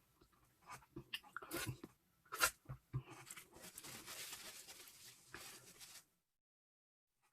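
Close-up eating sounds of a ripe persimmon: wet chewing and lip smacks, then a steady hissing noise for a few seconds that cuts off suddenly to silence near the end.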